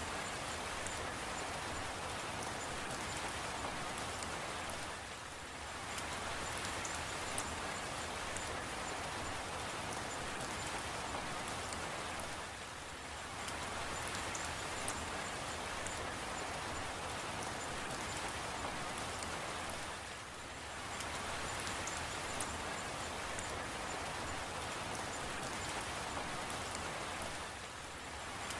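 Steady heavy rain, a dense hiss of drops with faint scattered drip ticks, dipping briefly in level about every seven and a half seconds.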